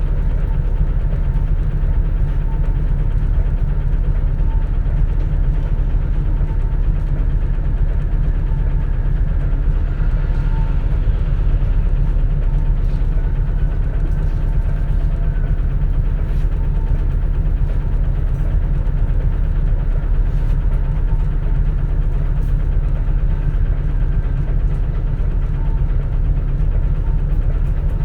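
Cabin sound of a 2004 compressed-natural-gas city bus running: a steady, loud low engine drone, with a faint whine that rises and falls in places and scattered small rattles and clicks.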